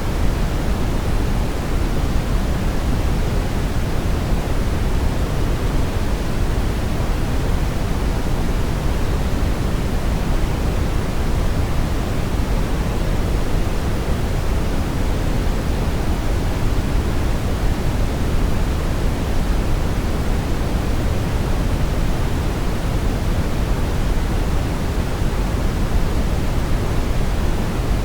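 Steady brown noise: an even, unchanging hiss-like rumble weighted heavily toward the low end.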